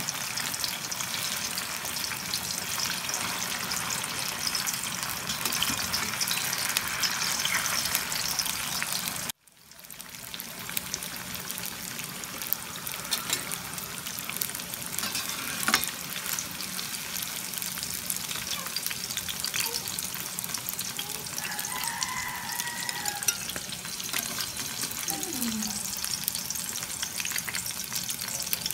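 Tofu slabs shallow-frying in hot oil in a stainless steel skillet: a steady sizzle with fine crackling. The sound cuts off suddenly about nine seconds in and swells back within a second.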